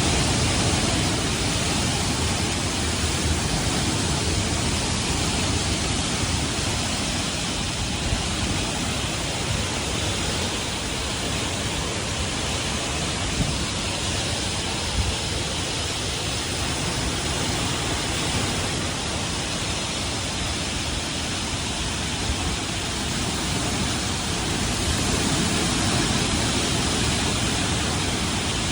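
Strong severe-thunderstorm winds blowing steadily, with gusts buffeting the microphone.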